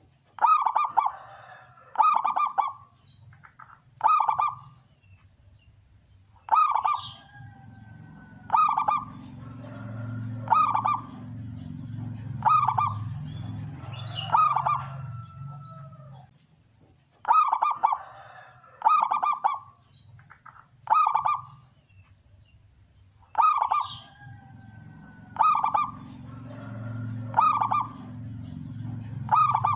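Male zebra dove (local perkutut) singing its cooing song, with a loud call about every two seconds. The calls come in runs of three to five with short pauses between. A low hum comes and goes underneath.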